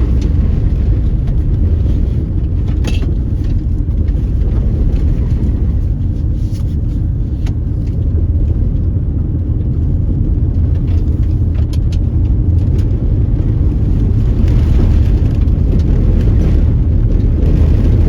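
Car driving on an unpaved, dusty road: a steady low rumble of engine and tyres, with a few scattered sharp clicks.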